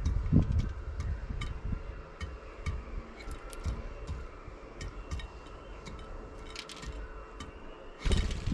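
Starlings pecking at a dish of mealworms: a run of sharp beak taps and clicks against the dish, with heavy low thuds close to the microphone at the start and a short loud burst of rustling near the end.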